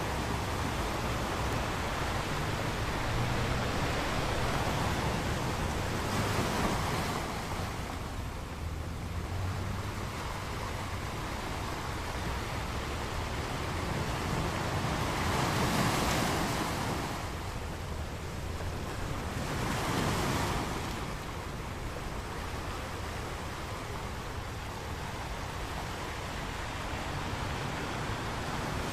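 Ocean waves breaking on a beach, a continuous rush of surf that swells louder as waves break, about three times.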